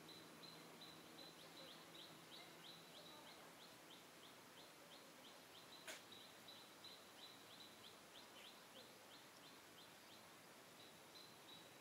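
Faint, quick series of short high chirps, about three a second, as from a small bird calling over and over; a single brief click about six seconds in.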